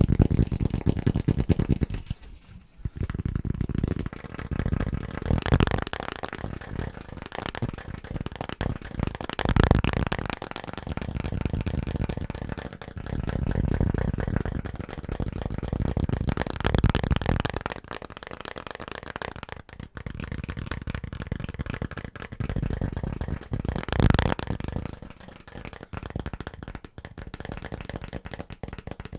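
Very fast, hard tapping on assorted household objects, a dense run of clicks and knocks. The sound changes every few seconds as one tapped object gives way to another.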